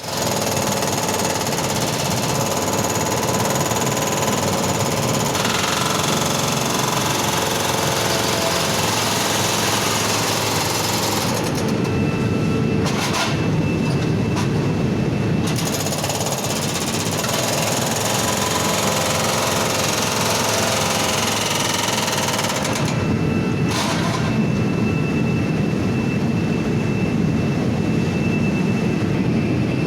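Brokk demolition robot's hydraulic breaker hammering continuously at a furnace's refractory brick lining, knocking it out. The high clatter thins out for a few seconds about twelve seconds in, and again briefly near twenty-three seconds.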